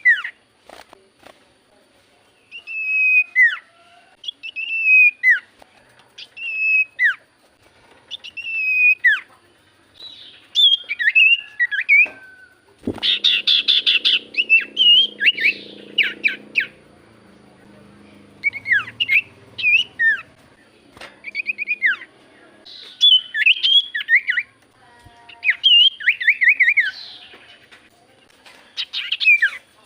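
Common iora singing loud whistled song: clear phrases about every two seconds, each sliding down in pitch. From about ten seconds in it turns busier and faster, with a harsh, noisy stretch of about three seconds starting around thirteen seconds.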